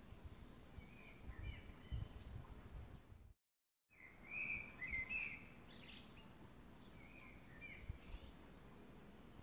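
Faint bird chirps in short, repeated phrases over low background noise. The loudest chirps come just after the sound drops out completely for about half a second, a little over three seconds in.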